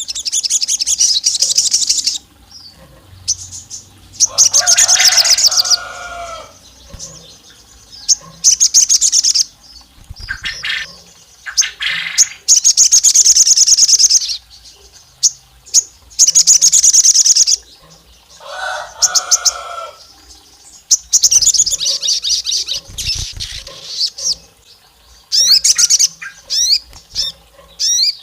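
Crimson sunbird (sogon) singing: repeated bursts of rapid, high-pitched chattering trills, each a second or two long, with short pauses between.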